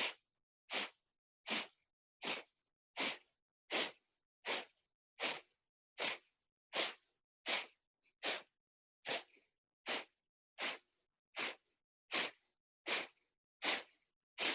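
Kapalabhati breathing: a steady run of short, forceful exhales through the nose, about one every three quarters of a second, with the inhales in between too soft to hear.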